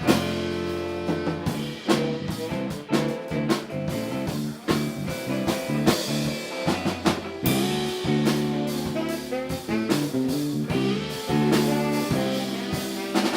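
Live band playing an instrumental groove: drum kit keeping a steady beat over a bass line, with guitar and horn parts.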